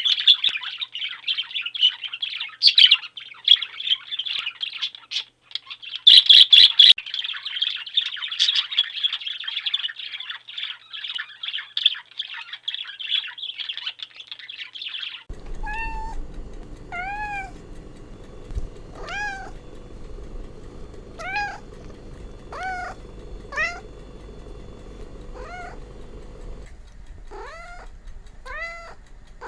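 A flock of small birds chirping in a dense, continuous chatter, then a sudden switch about halfway through to a cat meowing over a low steady hum, about ten meows, coming closer together near the end.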